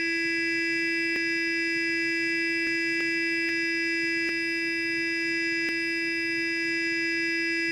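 Sonic electric toothbrush running continuously with a steady, high-pitched buzz at one unchanging pitch. Faint ticks come through every second or so.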